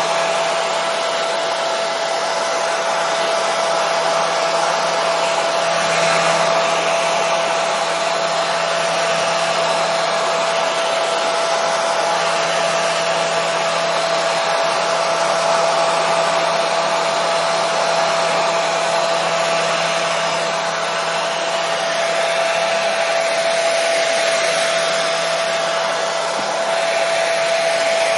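Hair dryer running steadily: a constant rush of air over a steady motor hum.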